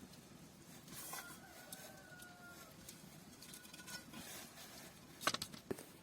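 A rooster crowing faintly: one long, fairly level call, then a short second one. A few sharp clicks or knocks come about five seconds in, louder than the crow.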